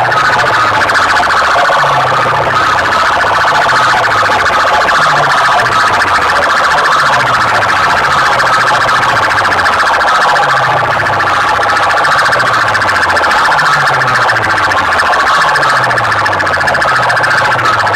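Loud siren-like electronic tone blasted through a competition DJ loudspeaker rig, pulsing rapidly, with a low falling bass sweep repeating about every second and a half.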